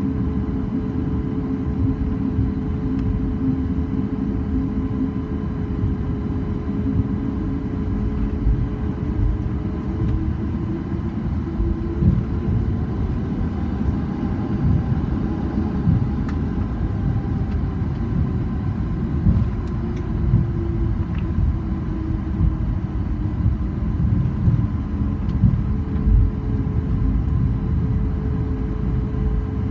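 Cabin noise of a Boeing 737 MAX 8-200 on the ground after landing: a steady low rumble from the airframe and wheels, with engine hum whose tones fade about a third of the way in and come back near the end, and a few light bumps.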